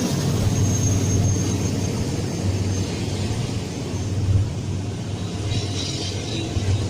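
Steady low rumble of a passing train, with a faint high-pitched tone that fades out about halfway through.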